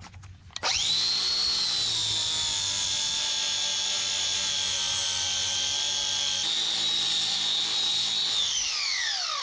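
Power grinder spinning up to a steady high-pitched whine and then winding down as it is switched off, used to square up the end of a stainless steel exhaust pipe.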